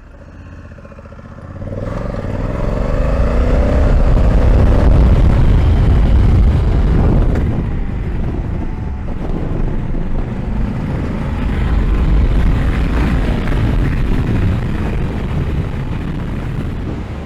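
Honda Africa Twin DCT's 1084 cc parallel-twin engine, quiet at first, then opening up hard about two seconds in with a rising note as the bike accelerates. It stays loud through the rest, mixed with heavy wind rush on the action-cam microphone.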